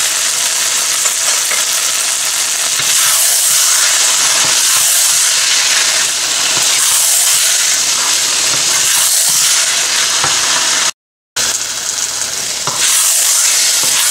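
Meat and bitter gourd sizzling as they fry in a nonstick wok, with a wooden spatula scraping through them as they are stirred; the sizzle rises and falls every couple of seconds with the strokes. The sound cuts out for a moment about eleven seconds in.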